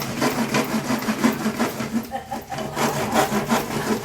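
Hand saw cutting through plywood in quick back-and-forth strokes, about three a second, with a brief pause about halfway before the strokes resume.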